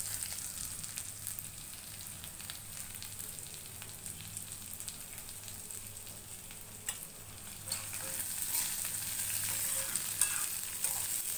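Coconut slices, red chillies and spices sizzling as they roast in a kadai with a little oil: a steady high hiss. Near the end a spatula stirs them with a few clicks against the pan, and the sizzle grows louder.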